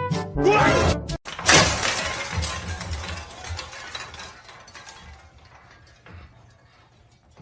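A sudden crash of something shattering about a second and a half in, followed by clattering and rattling that fades away over the next few seconds.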